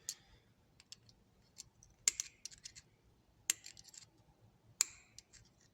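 Irregular light metallic clicks and taps as a tool works the small parts of a Craftsman thumbwheel ratchet during disassembly. The three sharpest clicks fall about two, three and a half and five seconds in.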